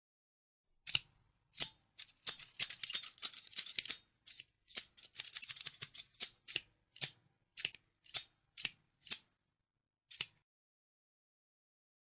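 Scissors snipping: sharp, bright single snips with two quick flurries of rapid cuts in the first half, then slower, evenly spaced snips that stop about two seconds before the end.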